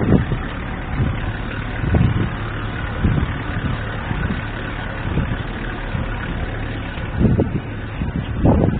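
Street traffic: a motor vehicle engine running steadily among road noise, with a few brief swells as vehicles pass.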